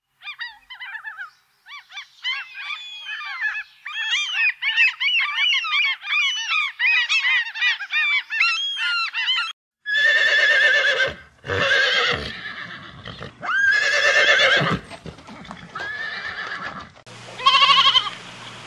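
Gulls calling in a rapid run of short, arched cries for most of the first ten seconds. Then a horse whinnies: three long neighs and a fainter fourth. Near the end, goats begin bleating.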